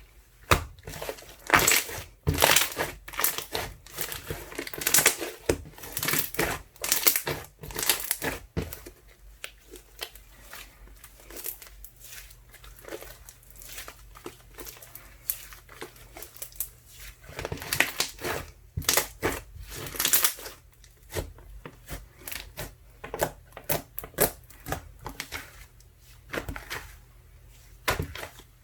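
Ice slime mixed with soothing gel being squeezed and pressed by hand, giving a run of crackling, popping clicks. The clicks are thickest in the first third and again a little past halfway, sparser in between.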